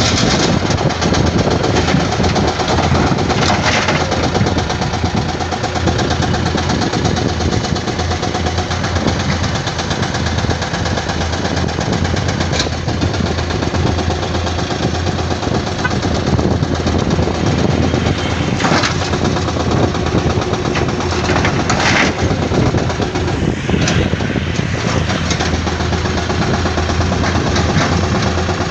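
Heavy diesel engines of an excavator and dump trucks running steadily under work, with a few sharp knocks now and then.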